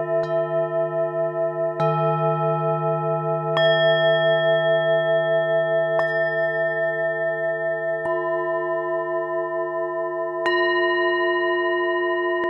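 Tibetan singing bowls struck one after another, about every two seconds, each strike adding a fresh ringing tone over the still-sounding ones. The long overlapping tones waver with a slow pulse.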